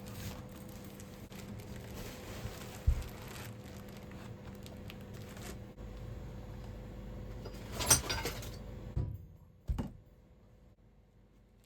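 Indoor handling sounds: a sharp knock about three seconds in, then a louder clatter of knocks and rattles around eight seconds, with two more knocks before it goes quiet.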